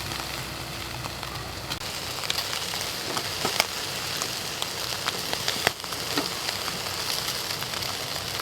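Marinated meat sizzling on a grill over campfire charcoal: a steady hiss with scattered sharp pops and crackles.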